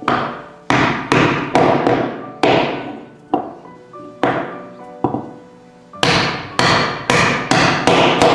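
Hammer blows on wood, repeated about two a second at an uneven pace, each ringing briefly. Faint background music plays underneath.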